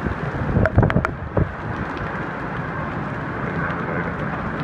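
Heavy downpour of a severe thunderstorm with strong wind buffeting the phone's microphone, a steady rushing roar. A few sharp knocks sound about a second in.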